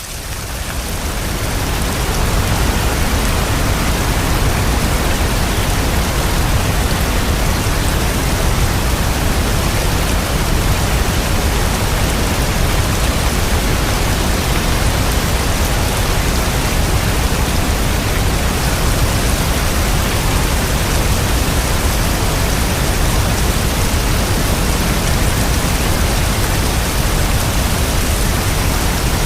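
Steady, dense rain falling: an even hiss with a deep low rumble underneath. It fades up over the first couple of seconds, then holds level throughout.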